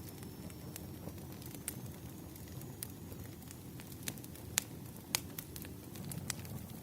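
Wood fire crackling: irregular sharp pops and snaps over a steady low rumble, with a couple of louder pops past the middle.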